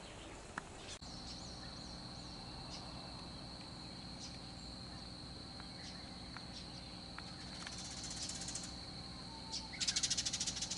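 Birds calling: a few short chirps, then a loud, rapid chattering trill about eight seconds in and again near the end, over a faint steady high whine.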